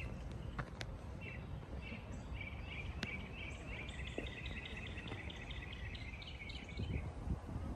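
Outdoor birdsong: scattered high chirps, then a rapid trill of repeated notes about halfway through that lasts a few seconds, over a steady low rumble.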